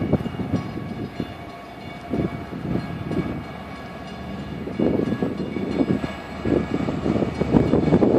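Long Island Rail Road diesel passenger train running, a low rumble under faint steady tones that surges in level near the start and again from about five seconds in.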